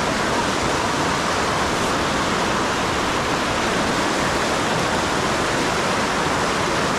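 River current rushing steadily over rocks, a loud, even noise with no breaks.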